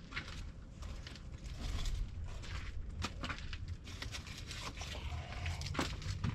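Scattered light clicks and knocks of hand work on the track loader's metal parts, over a steady low rumble.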